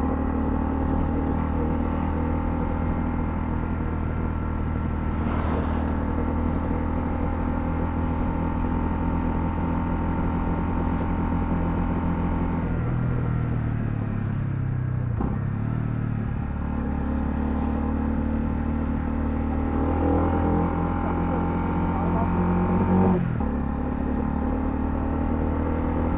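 Honda CL250's single-cylinder engine running steadily while riding. Its note changes about halfway through, dips briefly and picks up again, then changes abruptly once more near the end, as with gear changes or throttle changes.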